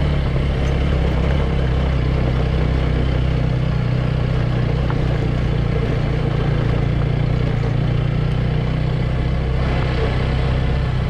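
Small motorcycle or scooter engine running steadily while riding off-road, with a haze of wind and road noise over it.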